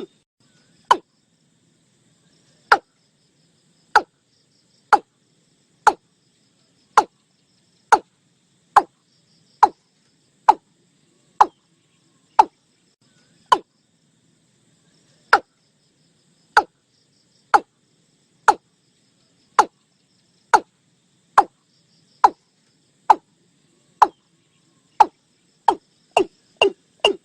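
Watercock calling: a long series of short notes, each dropping quickly in pitch, about one a second, quickening near the end to about three a second.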